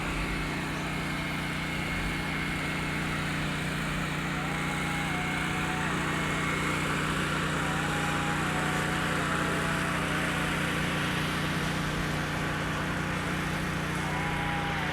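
A steady engine drone holding one pitch throughout, with no revving.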